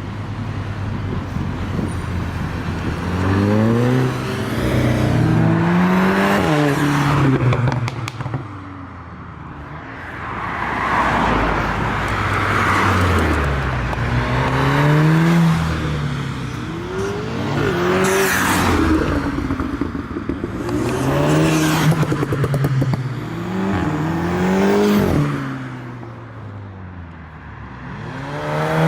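Tuned Volkswagen-group hot hatches accelerating and revving as they drive past one after another. Each engine's pitch climbs and drops back, repeated about half a dozen times, with loud rushes of engine and exhaust noise as cars pass.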